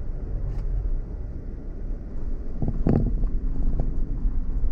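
Car driving on a rough dirt track: steady low engine and tyre rumble with wind on the microphone. About three seconds in comes a short run of knocks and rattles as it goes over bumps.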